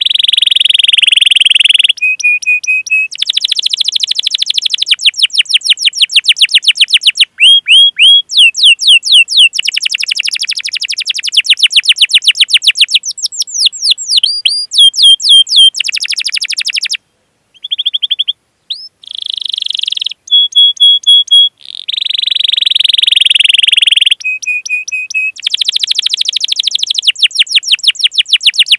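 Domestic canary singing a long, high-pitched song of rapid trills and rolls with short held notes, the phrase changing every second or two, with a brief pause a little past halfway.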